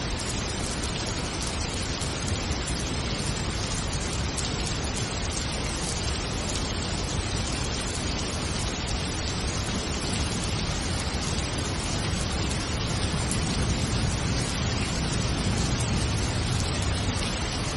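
Steady rain, an even hiss with no music or voice over it. A low rumble swells a little for a few seconds near the end.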